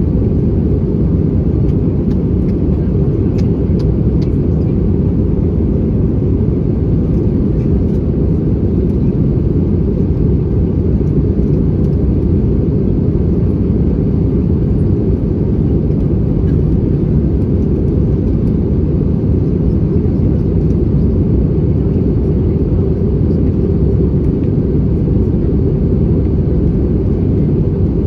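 Steady low roar inside the passenger cabin of an Airbus A320-214 in flight on descent: the CFM56 engines and the airflow over the fuselage, even and unchanging.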